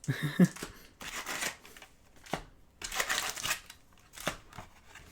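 Trading cards being handled: a few brief sliding swishes of cards against each other and light taps, with a short vocal sound right at the start.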